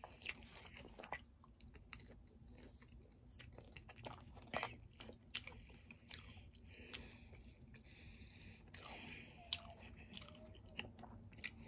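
A person chewing food with soft, faint, irregular mouth clicks and smacks, a few a second.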